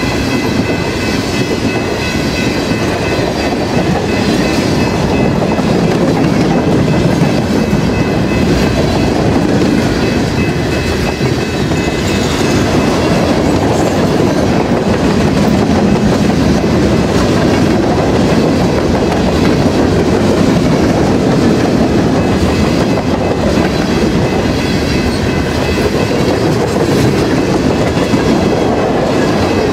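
Freight train rolling steadily past, its cars clicking over the rail joints, with a faint steady high whine from the wheels.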